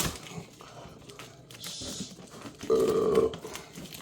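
A man burps once, a loud pitched burp lasting about half a second near the end, amid light rustling of packaging.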